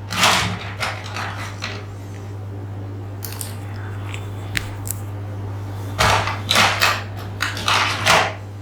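Close-up ASMR trigger sounds: short scratchy scrapes in a few clusters, with a few sharp clicks in the middle, over a steady low electrical hum.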